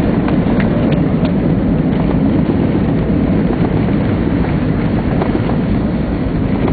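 Steady, loud low rumble of a jet airliner landing, heard from inside the passenger cabin.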